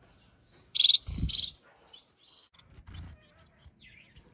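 Society finches calling: two loud, sharp chirps about a second in, followed by a few fainter chirps. A low thump sounds under the second chirp.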